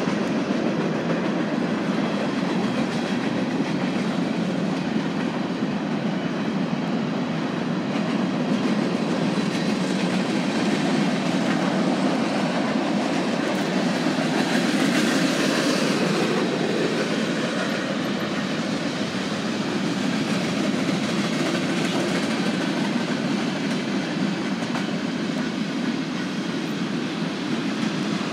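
Freight train of covered hopper cars rolling past, steady noise of steel wheels running on the rails.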